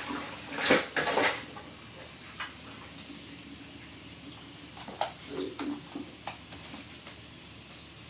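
Kitchenware clattering: a few sharp clinks and knocks of dishes and utensils, loudest about a second in, with lighter clinks later, over a steady hiss.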